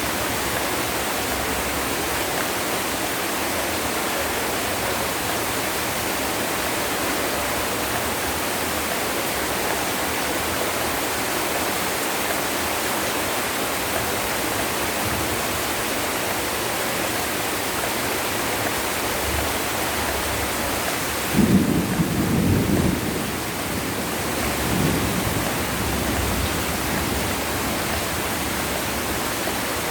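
Heavy rain falling in a steady downpour. About two-thirds of the way through, a sudden clap of thunder breaks out and rumbles for a few seconds, with a second, weaker roll before it fades.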